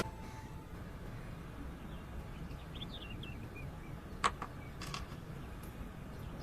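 Faint outdoor ambience with a few short bird chirps about three seconds in, then a brief sharp swish about four seconds in and a softer one shortly after.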